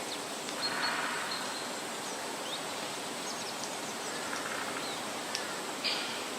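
Outdoor natural ambience: a steady noise bed with faint bird calls, a short thin whistle about a second in and a couple of brief higher calls near the end.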